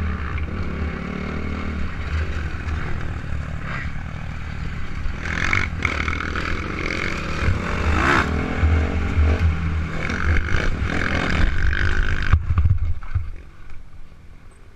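Suzuki RM250 two-stroke dirt bike engine running under riding, its pitch rising and falling, with a scraping clatter over a heavy low rumble. The sound drops away sharply about twelve and a half seconds in.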